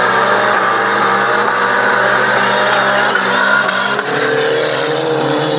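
Several old cars' engines revving hard at once as the wrecked cars spin their wheels on loose gravel and dirt, with engine notes climbing about four seconds in.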